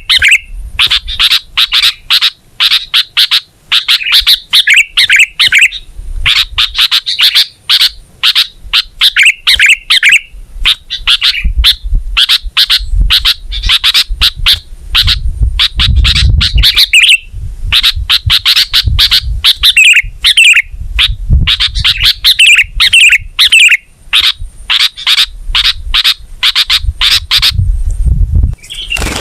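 Sooty-headed bulbul (kutilang) singing vigorously: a continuous, loud run of rapid chirps and trilled phrases with only brief breaks. Low rumbles come in about halfway and again near the end.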